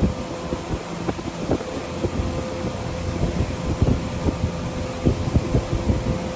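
A motor running steadily, its even hum overlaid with wind buffeting the microphone in irregular low thumps.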